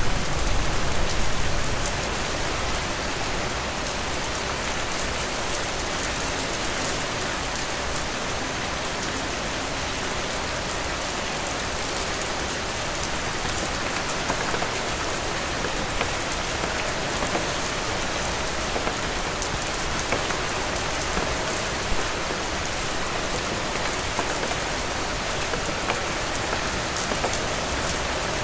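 Heavy rain falling steadily: a dense even hiss with scattered sharper drop ticks. A low rumble makes it louder for the first second or so.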